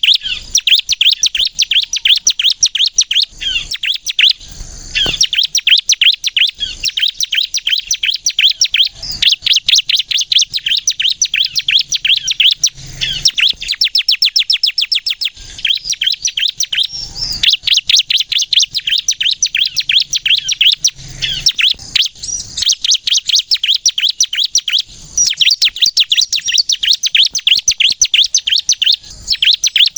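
Bar-winged prinia (ciblek kristal) singing without letup: loud, rapid-fire runs of high chirps and trills, each a few seconds long with brief pauses between them.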